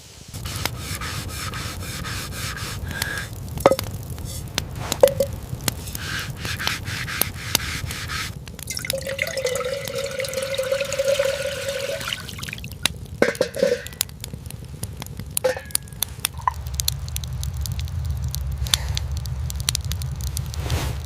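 Rain dripping and a campfire crackling over a steady low rumble of rain, with many sharp clicks. About halfway through, a pitched ringing tone holds for about three seconds.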